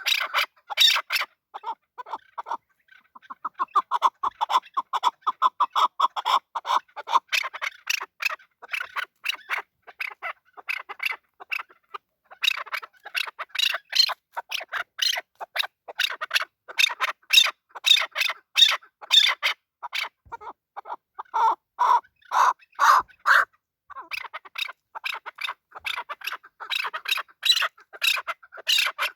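Chukar partridge calling: long runs of short, rapidly repeated chuk notes, broken by a couple of brief pauses.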